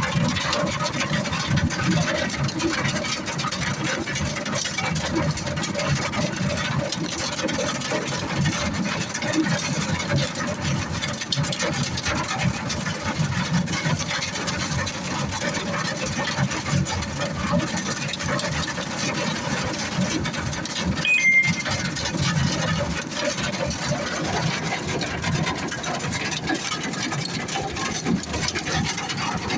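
Hail and rain pelting a vehicle in a dense, continuous rattle of small hits.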